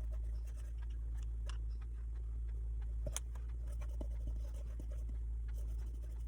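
Paintbrush strokes scratching faintly over wood, with small scattered ticks and one sharper click about three seconds in, over a steady low hum.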